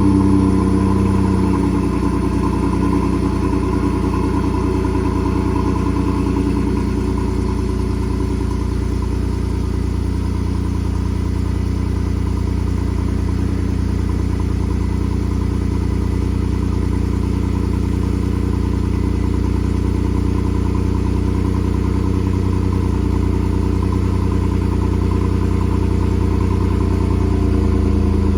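Ford 3.5 EcoBoost twin-turbo V6 idling just after a cold start, heard through the factory muffler with a 3-inch pipe in place of the resonator. The exhaust note steps down slightly about a second in, then runs steady.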